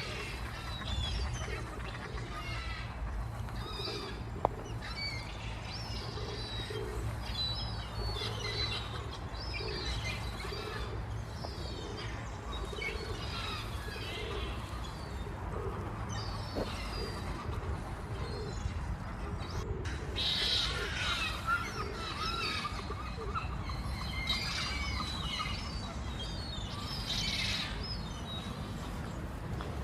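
Outdoor bird chorus: many birds chirping and twittering in short, repeated high calls, over a steady low rumble. A single sharp click sounds about four seconds in.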